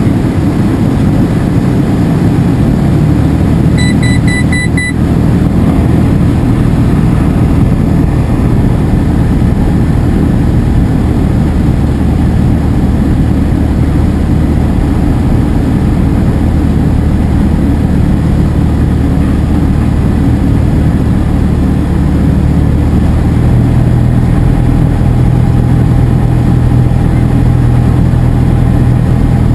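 Cessna 172SP's four-cylinder Lycoming engine and propeller running steadily, with a short pulsed beeping tone about four seconds in. About 23 seconds in, the engine note rises slightly in pitch as rpm increases.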